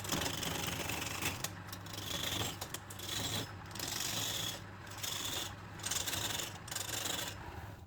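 Wood spinning on a lathe being worked in repeated strokes about a second long, with brief breaks between them, over a steady low hum from the lathe motor.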